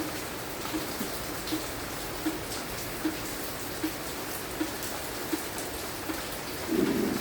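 Light, steady rain falling, with a single drip landing at an even beat about every three quarters of a second. A louder dull thump comes near the end.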